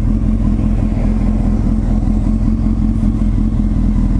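Honda 919's inline-four engine idling steadily at a standstill, its pitch unchanging.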